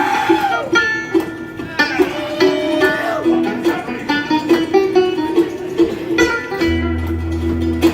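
Live bluegrass music: fast-picked acoustic strings, guitar and banjo, with a few sliding notes and a low bass note coming in near the end.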